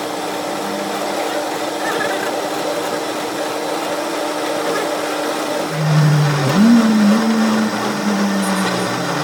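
A motor-driven workshop machine or power tool running steadily. About six seconds in, a louder motor tone rises in pitch and then holds, wavering slightly.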